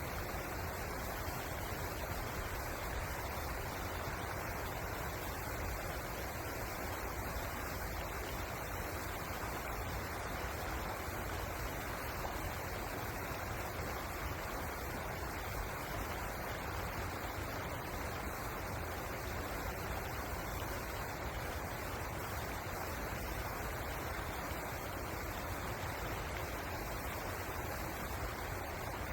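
River water running: a steady, even rush with no changes.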